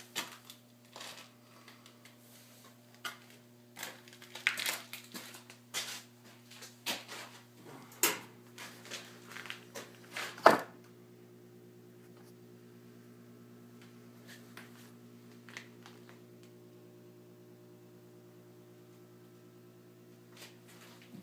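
Irregular clicks, knocks and rustling from close handling, the loudest a sharp knock about ten seconds in, then a steady low electrical hum.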